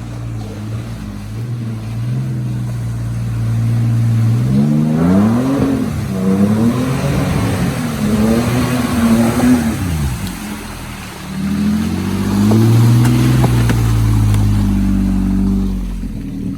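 Dirt bike engine running, then revved up and down several times in the middle, the pitch rising and falling, before it settles into a steadier run near the end.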